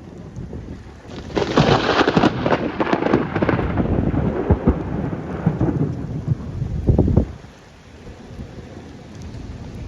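Close thunder: a sharp crack about a second in, then a long rolling rumble with crackles that drops away abruptly about seven seconds in, over steady rain.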